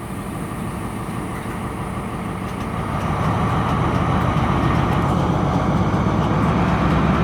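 Class 43 HST power car's MTU diesel engine roaring as it opens up to pull the train away, growing steadily louder.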